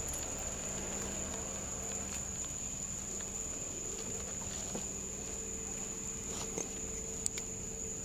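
Crickets chirring in a continuous, steady high-pitched drone over a low steady hum, with a few faint clicks.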